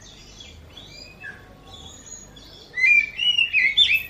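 Oriental magpie-robin (kacer) singing: faint scattered chirps at first, then from near three seconds in loud sliding whistled notes that rise and fall, the kitten-like mewing the bird is known for.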